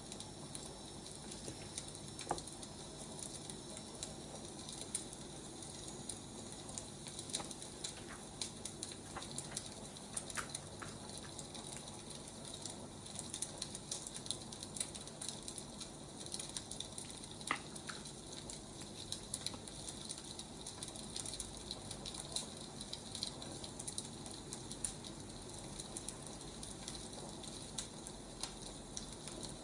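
Wood fire crackling: a steady soft hiss with many small, irregular pops and snaps.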